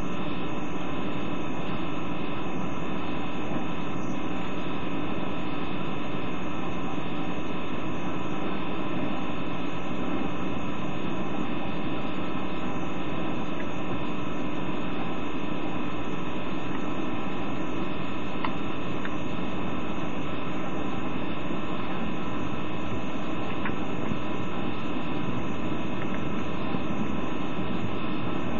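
Steady running noise inside a passenger coach of a moving train, a constant hum with only a few faint clicks from the wheels passing over rail joints.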